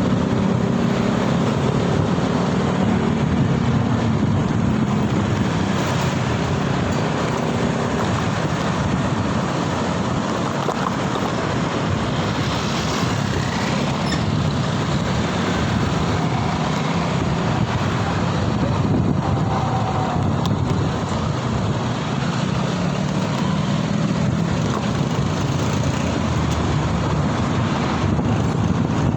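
Steady road and traffic noise heard while riding through city traffic, with wind buffeting the microphone and the hum of nearby vehicle engines swelling and fading.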